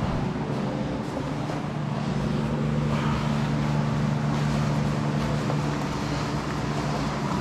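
A steady low mechanical hum that holds one pitch throughout, like a motor running.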